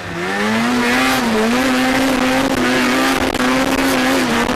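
Small off-road vehicle engine under throttle while riding. It revs up just after the start and holds a steady high note, eases briefly about a second and a half in, and drops back near the end.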